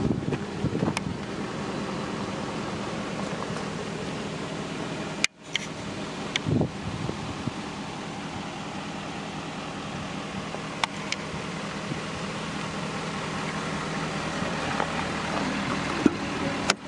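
Ford F550 truck running with a steady hum, cutting out briefly about five seconds in.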